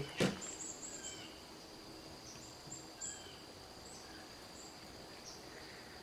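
Faint small birds chirping now and then over a steady high, thin tone, after a short knock right at the start.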